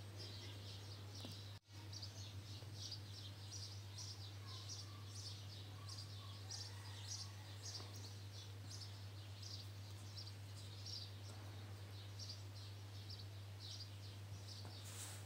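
Faint bird chirps repeating rapidly, a few times a second, over a steady low hum. The sound cuts out for an instant about one and a half seconds in.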